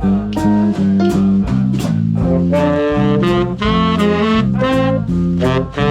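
Swing jazz band playing: a steady beat of drum strokes under a stepping bass line, with the horn section, saxophones among them, coming in with full chords about two and a half seconds in.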